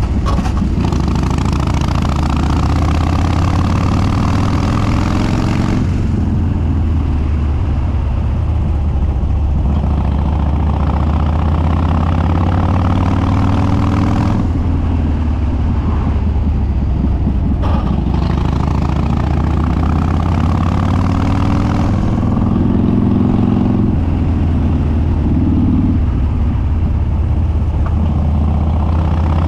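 Harley-Davidson Dyna Street Bob's Twin Cam V-twin, with Stage 2 cams and an unbaffled upswept dual exhaust, running under way at speed. Its pitch climbs several times and drops back abruptly, at about six seconds, fourteen seconds and twice near the end.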